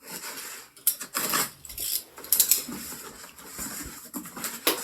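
Package being handled and opened by hand: irregular bursts of rustling, scraping and light clatter, loudest about a second in and again halfway through.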